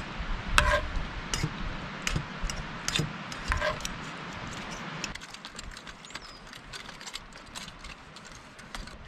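Metal cookware and utensils clinking and clattering, two knocks ringing briefly like a struck pot, over a steady hiss that stops about five seconds in.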